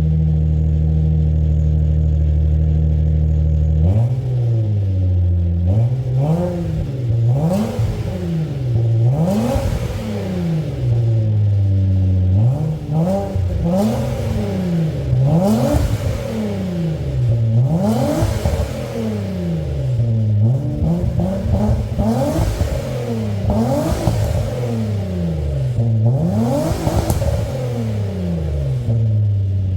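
SM7 New Art 2.3's V6 engine through a custom full dual exhaust, idling steadily and then revved up and let fall back over and over, about a dozen blips a couple of seconds apart, settling back to idle near the end.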